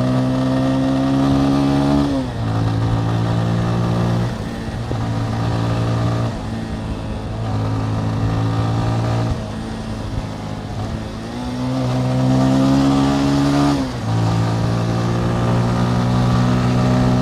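Motorcycle engine pulling through the gears while riding. Its pitch climbs, then drops sharply at each upshift, several times over, with wind rumbling on the microphone.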